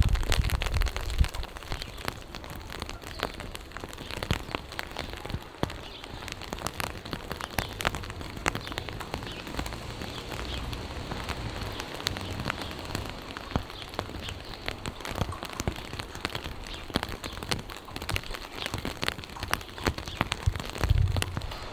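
Steady rain falling, with many close, sharp raindrop hits throughout.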